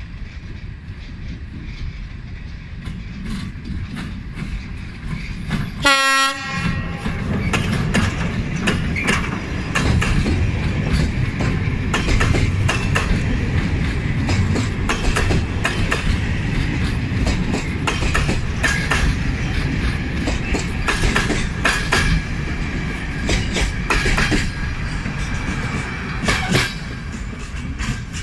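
A locomotive hauling a container freight train comes up and passes close by, giving one short horn blast about six seconds in. After that, the wagons roll past with a steady rumble and repeated wheel clacks over the rail joints.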